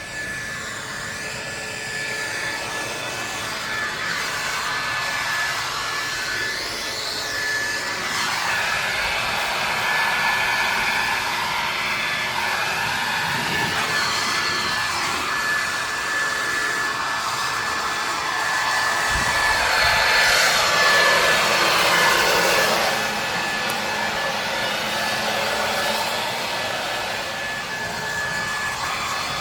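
Ryobi 2000 psi pressure washer running, its jet of water hissing against the car with a steady high whine under it. The spray noise shifts as the jet moves and is loudest about two-thirds of the way through.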